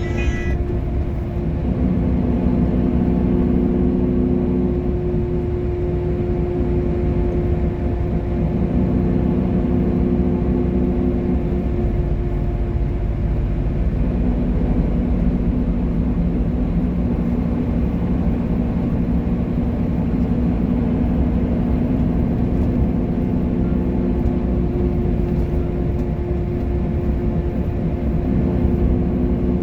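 Scania bus running with a steady low engine drone and a constant hum, a deeper note swelling and easing every few seconds.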